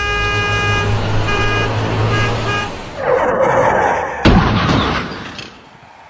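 Truck horn honking several times over a low engine rumble, followed by a rushing noise and one sudden loud crash that dies away over about a second.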